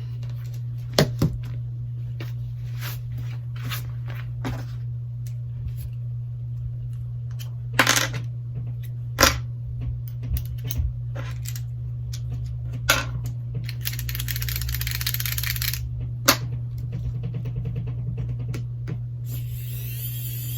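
Tiny screws being unscrewed from a Galaxy Note 8's inner frame and set down: scattered sharp clicks and taps of the screwdriver and metal screws, with a few seconds of hissing scrape in between, over a steady low hum.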